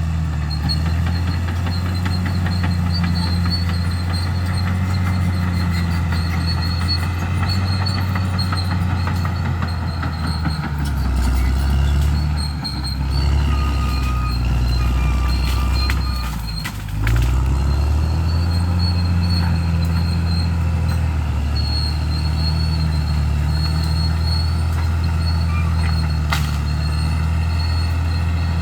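Bulldozer's diesel engine running steadily under load, lugging down briefly twice, with a few sharp cracks and a faint high squeal partway through.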